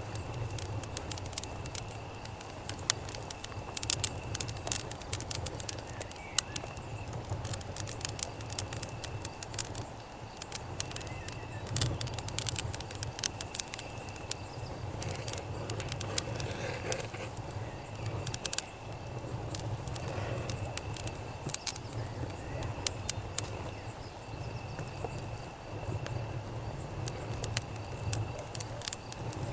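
Campfire crackling with irregular sharp pops, over a high insect trill of crickets that starts and stops every second or two, and a low rumble underneath.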